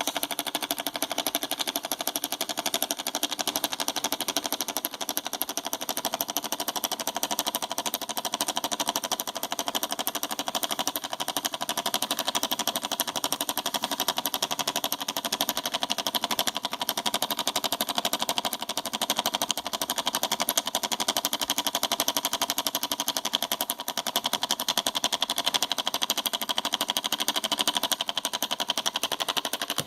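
Homemade mini solenoid engine running at speed: its small solenoid, salvaged from a car CD player, snaps on every stroke while the switch contacts open and close, making a fast, even clicking rattle.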